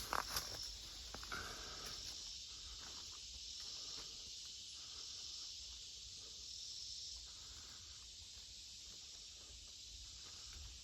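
Footsteps rustling through overgrown brush and briars, with a few small snaps near the start, over a steady high drone of insects.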